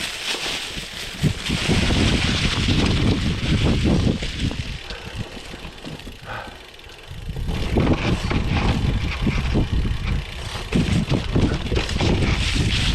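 Wind rushing over the microphone and tyre rumble from a Canyon Inflite SL 7 cyclocross bike being ridden, easing off briefly about halfway through and then picking up again.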